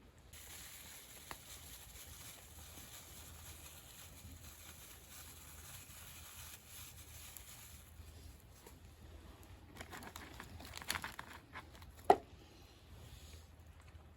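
Faint rustling and crinkling of food preparation by hand, then a quick run of small clicks and a single sharp knock just after twelve seconds.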